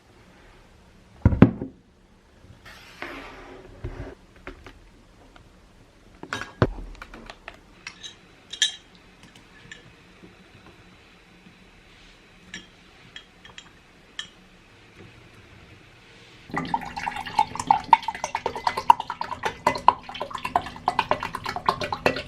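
Dishes and cutlery handled in a small room: scattered clinks, knocks and a couple of heavier thumps, with some liquid trickling. About two-thirds of the way through, a louder, dense sound with steady tones and many rapid clicks starts and continues.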